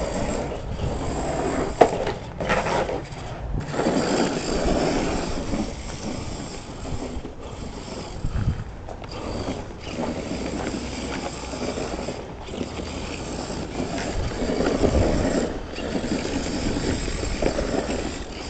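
Redcat Everest 10 electric RC truck, with a brushed motor on a 3S battery, driving under changing throttle: a mechanical whirring of motor and gears that swells and drops, with several brief cut-offs.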